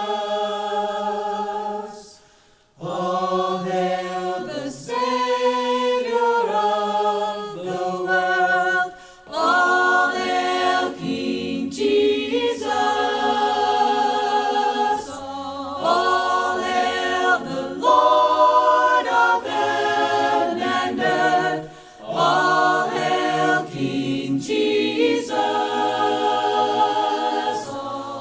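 A cappella choir singing a worship hymn in held, multi-part harmony, with short breaks between phrases.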